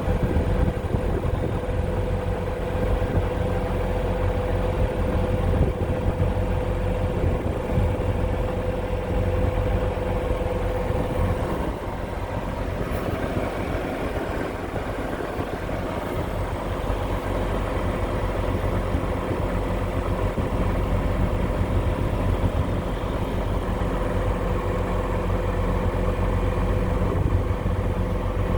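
John Deere 8320 MFWD tractor's diesel engine running steadily, with a thin steady tone over it that drops out for about twelve seconds in the middle.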